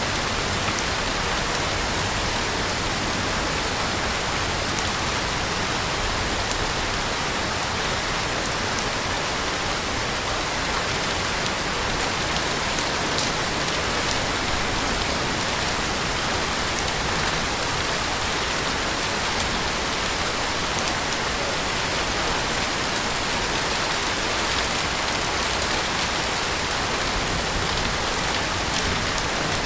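Heavy rain falling steadily: a dense, even hiss of rainfall with faint scattered ticks of individual drops.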